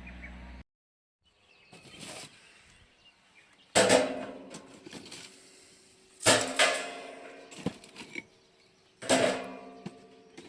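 Metal parts of a UNIFLAME Fire Grill Large clanking together during assembly: three sharp metallic clanks about two and a half seconds apart, each ringing on briefly as it fades.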